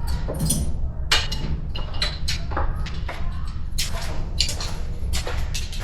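Scattered clicks, knocks and light clatter of objects being picked up and handled, over a steady low hum; no tool is running.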